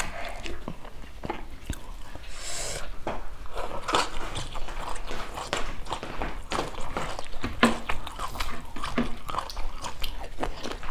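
A person chewing and biting stir-fried green beans with rice, in many short, sharp mouth sounds.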